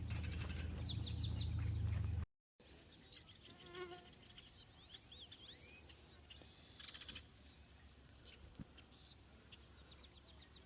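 Songbirds chirping and calling, with many short rising and falling notes and a rapid buzzy trill about seven seconds in. A loud low rumble on the microphone during the first two seconds cuts off abruptly before the birdsong.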